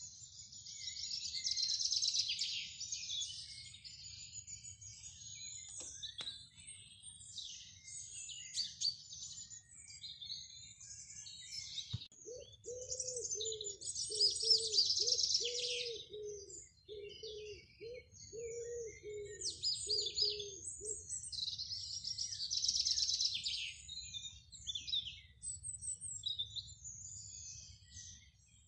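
Several small garden songbirds singing and chirping in high, rapid phrases and trills. For several seconds in the middle, a lower call repeats about twice a second, opening with a sharp click.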